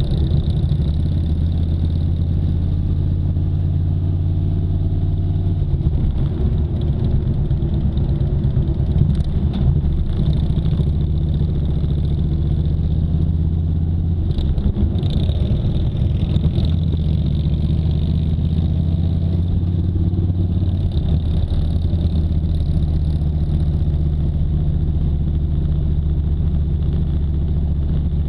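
Vehicle engine running at a steady speed, a continuous low drone whose pitch shifts briefly about halfway through.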